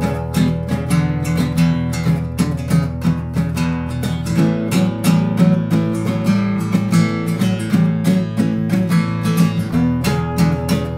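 Instrumental passage of a song: strummed acoustic guitar in a steady rhythm over bass, with the chord changing about four seconds in and again near the end.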